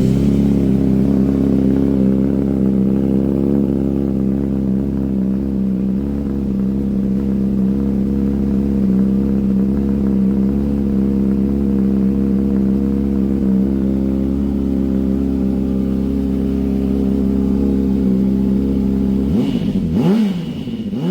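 Honda CBR600RR inline-four through an SC-Project SC-RR carbon exhaust, idling steadily and loud. Near the end it is blipped in several quick revs that rise and fall.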